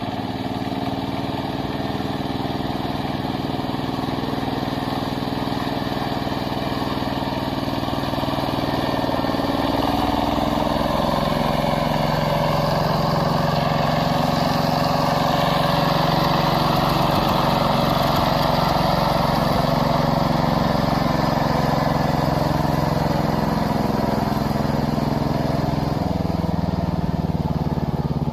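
Kubota power tiller's single-cylinder diesel engine running steadily. Its note changes about ten seconds in and again near the end.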